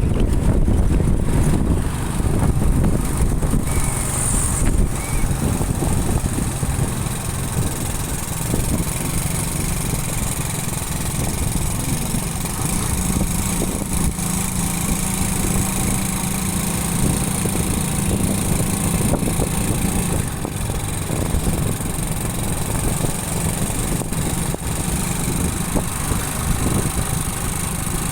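Motorcycle engine running steadily while riding, with road and wind noise. The engine's pitch rises a little about twelve seconds in and drops back about twenty seconds in.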